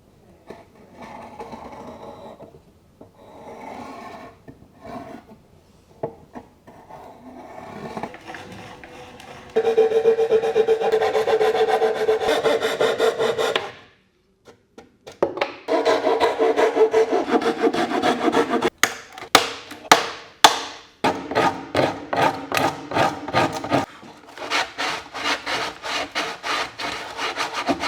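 Wood being worked by hand, a tool rubbing back and forth across it in quick rasping strokes. The strokes come in several short stretches that start and stop abruptly, quiet at first and louder from about a third of the way in.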